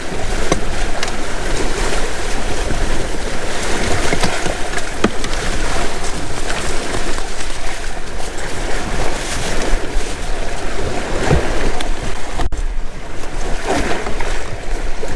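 Wind buffeting the microphone and water rushing past the hulls of a Windrider 17 trimaran under sail in a strong breeze, a steady loud wash of noise. It cuts out for an instant about twelve and a half seconds in.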